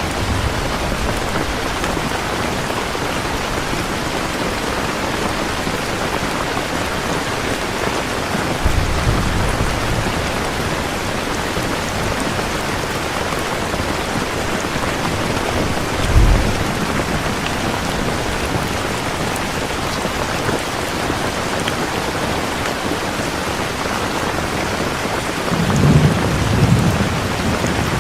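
Steady heavy rain with low rolls of thunder: brief rumbles about nine and sixteen seconds in, and a longer rumble building near the end.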